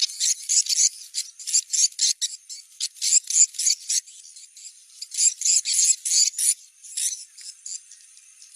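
Recorded swiftlet lure sound: rapid, high twittering chirps in dense runs with short pauses, over a faint steady high tone. It is a location-check call, played to see whether wild swiftlets gather at a site chosen for a swiftlet house.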